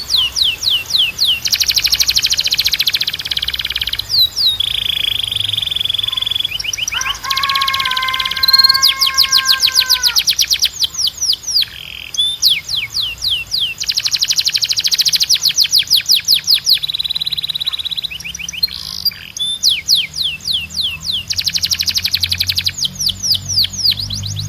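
Spanish timbrado canary singing a long, loud song: fast trills of repeated falling notes alternating with dense buzzing rolls, and a held lower whistled note about a third of the way through.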